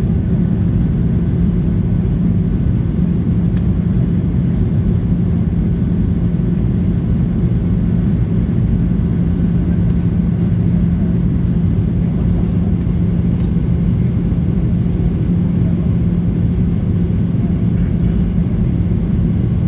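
Steady cabin noise of a Boeing 737-800 in flight: engine and airflow rumble with a constant low hum.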